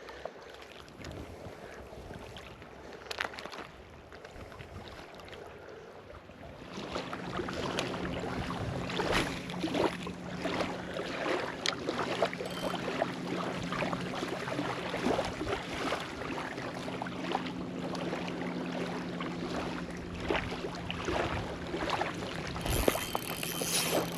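A motorboat's engine hums steadily, coming in about a quarter of the way through and holding to the end, under crackling wind and water noise.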